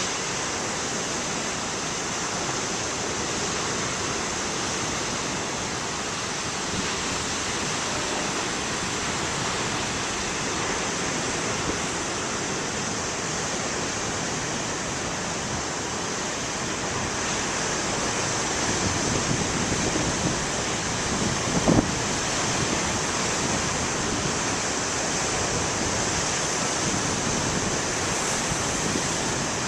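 Large waves breaking on the shore: a steady wash of surf that swells a little louder about two-thirds of the way through. A single brief knock comes at that point.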